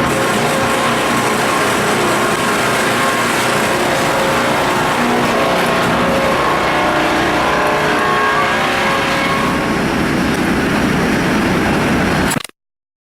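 SB2v-440 twin-shaft multi-saw circular log edger with 630 mm saw blades, running with a loud, steady machine noise and several faint, shifting tones. The sound cuts off abruptly near the end.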